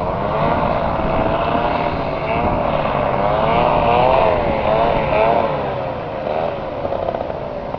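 Strong wind buffeting the microphone with a low rumble, over a continuous whistling howl whose pitch wavers up and down.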